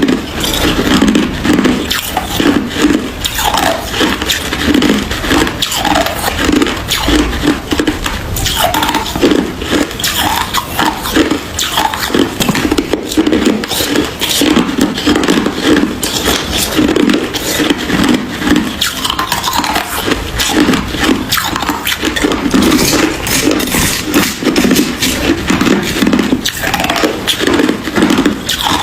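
Hard ice being chewed: a steady, rapid run of loud crunches and cracks.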